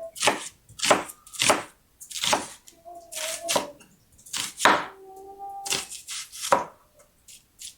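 Kitchen knife slicing a red onion on a cutting board: about eight sharp, unevenly spaced chops.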